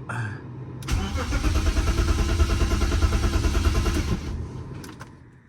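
BMW E46 engine cranked over by its starter for about three seconds, starting about a second in, turning without firing and then winding down. It does not catch, which the owner puts down to no fuel getting to the engine.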